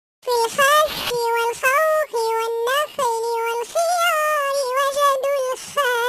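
High-pitched, pitch-shifted voice singing a children's song about the Arabic letter khaa, the sped-up repeat of the Talking Ginger app. The phrase starts just after the beginning and breaks off near the end.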